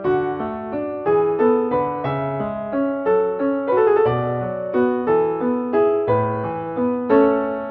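Background piano music, a gentle waltz with notes struck one after another about twice a second over sustained lower chords.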